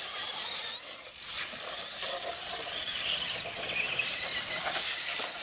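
Radio-controlled monster trucks' electric motors whining as they race off the start, a wavering high whine over a steady hiss, with one short knock about a second and a half in.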